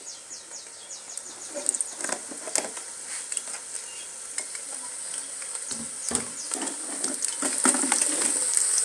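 Cooking oil in a wok over a jiko stove, crackling and sizzling with scattered clicks as it heats, the hiss growing louder toward the end.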